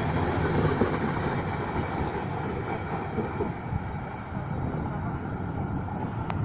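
Passenger train rolling away along the track, the rumble of its wheels on the rails slowly fading as the last coaches recede.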